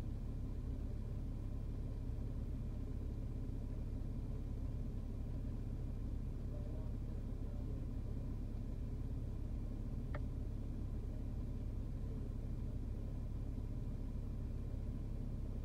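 Car engine idling at a standstill, heard from inside the cabin as a steady low rumble. A single faint click about ten seconds in.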